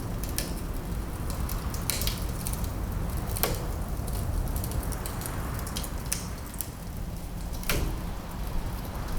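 Fireplace wood fire crackling, with scattered small snaps and a few louder pops about two, three and a half and nearly eight seconds in, over a steady low rumble.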